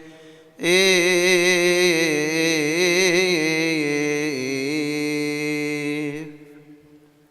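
A deacon's solo voice chanting one long melismatic phrase of a Coptic Orthodox hymn, unaccompanied. After a brief pause the note begins just under a second in, wavers through ornaments for about five seconds, then fades, leaving the last second quiet.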